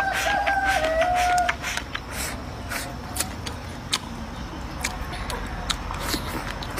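Close-up eating sounds: wet mouth clicks and slurps as stir-fried water spinach is chewed. In the first second and a half a rooster crows once in the background.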